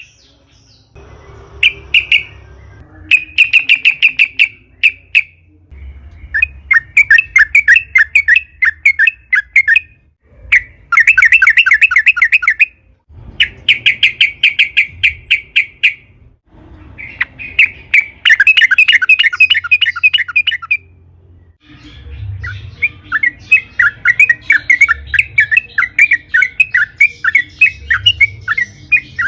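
Yellow-vented bulbul (trucukan) singing its long, fast chattering song. Bright notes repeat rapidly in phrases of one to several seconds, separated by short pauses; the longest runs near the end.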